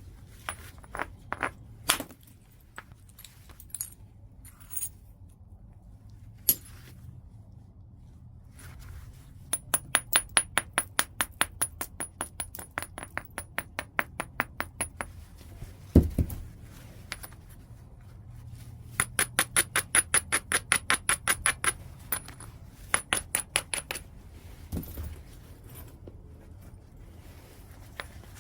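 Chert being knapped: sharp stone-on-stone clicks. There are scattered single strikes, a heavier blow with a dull thump about halfway through, and two long runs of quick, evenly spaced light taps at about six or seven a second.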